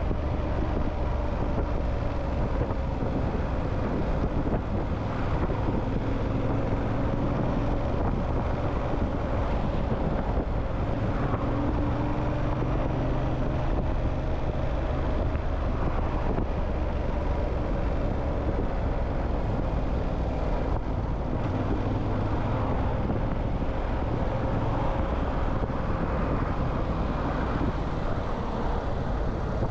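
Motorcycle riding steadily at low speed, its engine a steady hum with a tone that drifts slowly, over road and wind noise.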